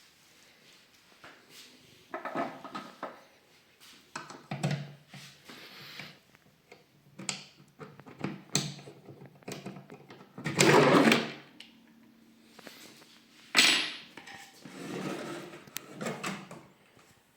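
Old wooden cash-register drawer being handled: a series of scrapes and knocks, the loudest a slide of about a second roughly ten seconds in and a sharp knock a few seconds later.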